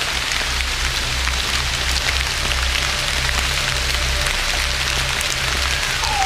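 Light rain drizzling, a steady patter of many small drops, over a low pulsing drone.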